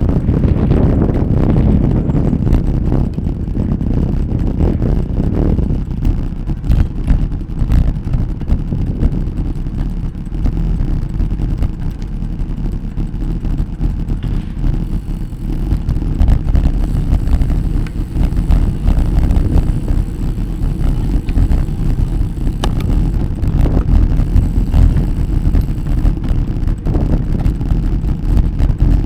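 Wind buffeting the microphone of a moving bicycle, a loud, unsteady low rumble with a few faint clicks.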